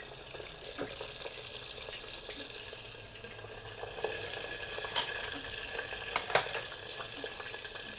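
Food sizzling in a frying pan, with a few sharp clicks of a utensil against the pan about five and six seconds in.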